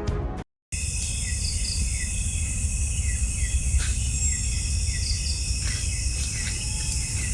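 Night forest ambience: crickets and other insects trilling steadily in several high-pitched layers, with a short falling chirp repeating every half second or so, over a low rumble. A bit of intro music cuts off about half a second in.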